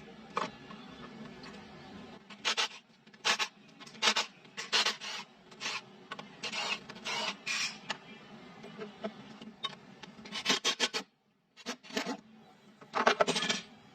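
Repeated short rasping scrapes, a dozen or so strokes in irregular bursts, like something being scrubbed or filed by hand, with a brief pause about eleven seconds in.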